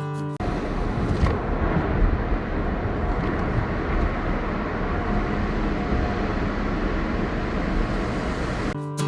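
Steady vehicle noise: a low rumble with a hiss over it, cutting in abruptly about half a second in and running evenly.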